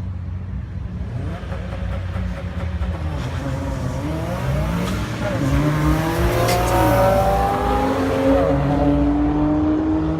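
Drag race cars accelerating hard down the strip, engine pitch climbing, falling back at gear changes and climbing again, growing louder past the middle.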